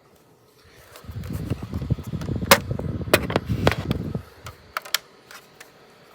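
Plastic DVD cases being handled and shuffled: a dense rustling clatter for about three seconds with a few sharp clacks, then a few scattered clicks.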